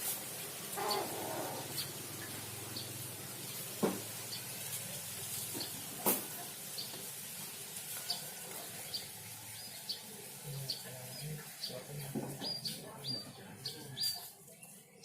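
Munias (emprit) chirping: short high chirps repeated every half second or so, coming faster near the end, with a couple of sharp knocks in between.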